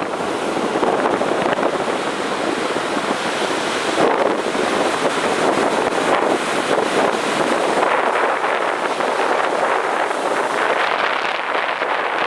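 Heavy ocean surf breaking on a beach: a continuous wash of waves that swells louder about four and eight seconds in.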